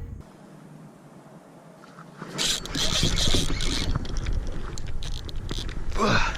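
Kayak on the water: splashing and sloshing with small knocks of gear against the hull, starting after a quiet couple of seconds. A short falling cry comes near the end.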